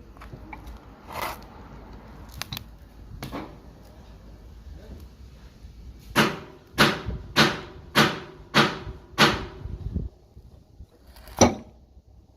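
Sharp knocks with a short ring: a few scattered ones, then a run of six evenly spaced strikes a little over half a second apart, then one more near the end.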